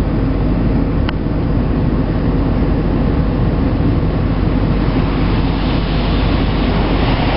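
Automatic car wash machinery running, heard from inside the car's cabin: a steady low rumble with a hiss of spray over it, the hiss growing a little stronger near the end.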